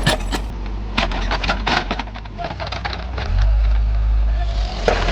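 Backhoe loader's diesel engine running steadily under load, with a run of sharp cracking and snapping about a second in as woody shrubs and branches are torn out. The engine grows louder, working harder, a little past halfway.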